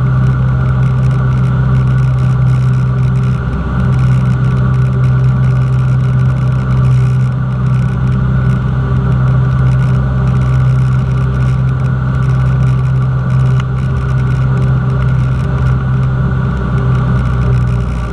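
Cessna 172's piston engine and propeller running steadily, one constant low-pitched drone that holds unchanged throughout.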